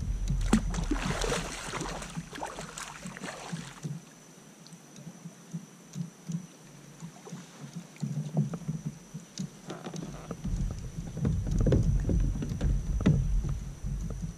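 Water splashing and sloshing around a kayak for the first few seconds, then a run of knocks and bumps on the kayak's hull.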